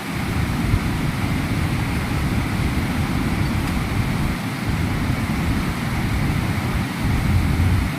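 Waterfall roar: a steady rush of falling water, with heavy low rumble.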